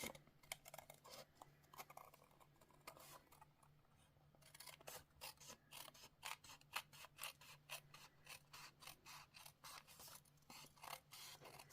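Faint, repeated snips of small craft scissors cutting paper: a few scattered cuts, a short pause, then a run of quick snips at about two a second.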